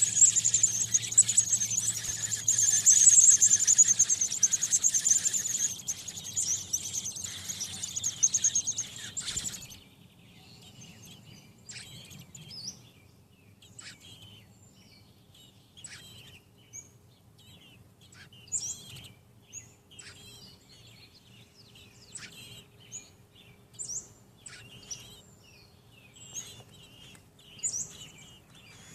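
American robin nestlings peeping: a loud, dense chorus of high-pitched begging calls that stops abruptly about ten seconds in, followed by scattered faint chirps.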